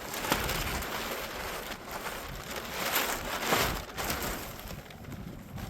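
Large plastic tarp rustling and crinkling as it is handled, in uneven swells with a sharp snap about a third of a second in.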